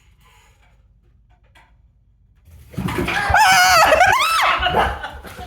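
After a quiet stretch, loud startled screaming and yelping breaks out about two and a half seconds in, with the pitch sliding up and down, then tapers off near the end.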